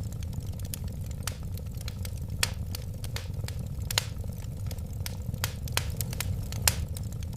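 Wood fire crackling in a fireplace: a steady low rumble of flames with frequent irregular sharp pops and snaps, a few louder ones.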